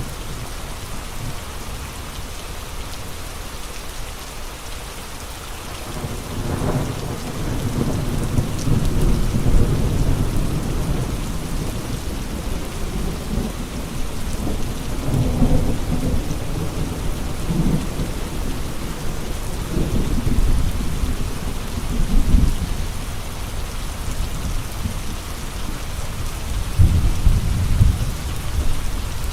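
Steady rain with gusting wind. Low rumbling swells begin about six seconds in and come and go several times, the strongest near the middle and near the end.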